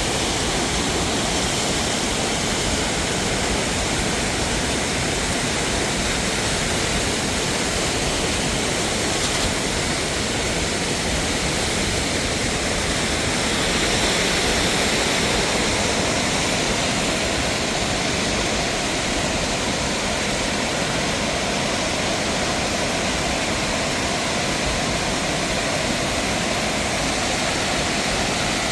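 Steady rush of a mountain waterfall, an even noise of falling water that does not let up.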